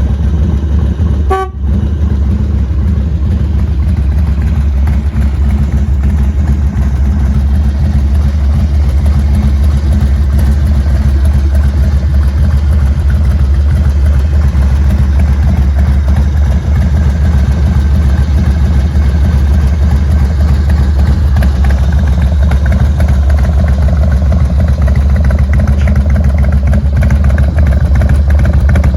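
2000 Harley-Davidson FXDX Dyna's 1450 cc Twin Cam 88 V-twin running steadily through a Kerker 2-into-1 exhaust, loud. About a second and a half in there is a brief short tone and a dip.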